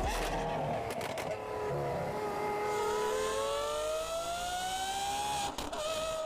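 Lamborghini Aventador SVJ's naturally aspirated V12 engine accelerating, its note climbing steadily for about three seconds. Near the end it breaks off briefly and comes back at a steady pitch.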